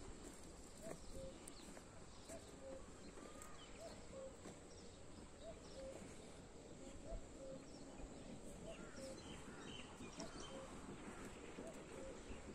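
Outdoor ambience in which a bird repeats a short, low note about once a second, with scattered higher bird chirps over it. A faint steady high whine runs underneath.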